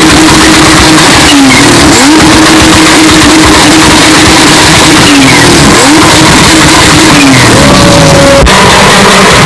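SUV engine held at high revs. Its pitch drops and climbs back a few times, as in hard acceleration and drifting. The sound is heavily overdriven and clipped, with a sudden cut near the end.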